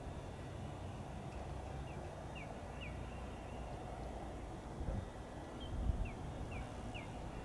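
A small bird giving short, high, falling chirps in groups of two or three, over a steady low outdoor rumble, with a couple of low bumps about five and six seconds in.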